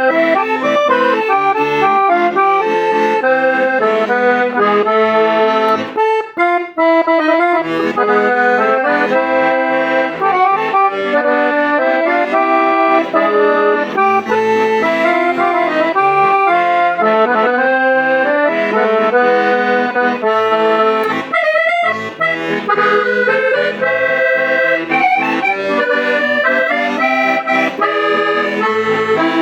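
Hohner Morino IV S Midi C accordion played: a continuous stream of melody over chords, with a brief break about six seconds in.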